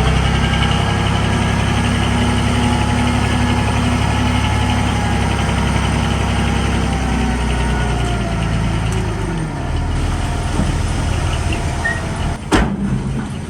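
Heavy diesel engine of a dump truck or small bulldozer running steadily, easing off about two-thirds of the way through. A couple of sharp knocks near the end.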